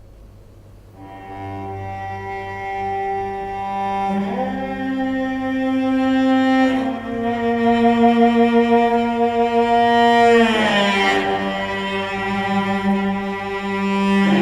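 Cello playing slow, long bowed notes that start about a second in and change pitch every few seconds, with a sliding pitch change about ten seconds in.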